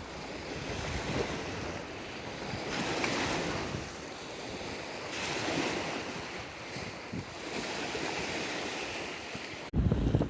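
Surf: waves washing in and out, the noise swelling and ebbing every few seconds, with wind on the microphone. Near the end it cuts suddenly to a louder low rumble.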